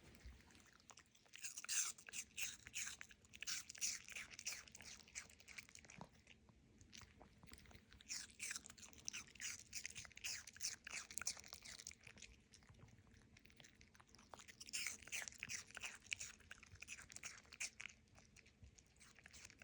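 A Maltipoo dog crunching and chewing crisp apple pieces: rapid crisp crunches in three bouts separated by short pauses.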